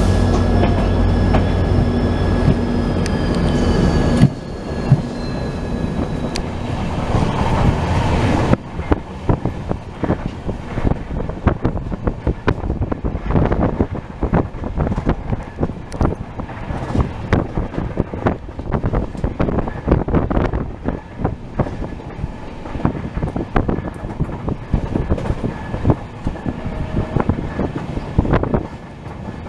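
Express train running on the line: a heavy steady rumble for the first few seconds, then, after an abrupt change about eight seconds in, a dense rattling clatter of the wheels over the track.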